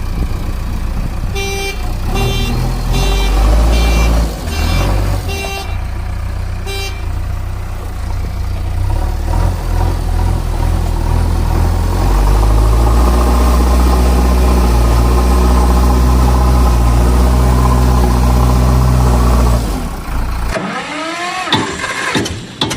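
Vehicle engine rumble, with a series of short horn beeps in the first seven seconds, then a steady low engine drone; near the end the drone gives way to a sweeping tone and rapid ticking.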